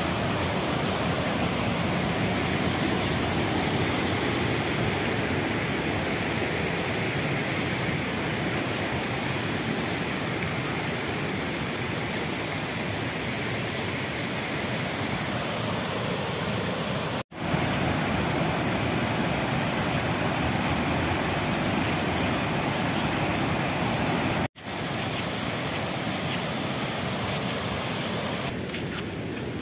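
Waterfall rushing steadily: a continuous, dense wash of falling water. It cuts out for an instant twice.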